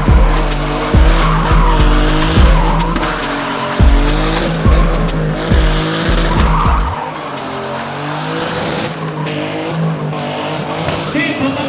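Car engine revving up and down hard with tyres squealing and skidding as a car drifts.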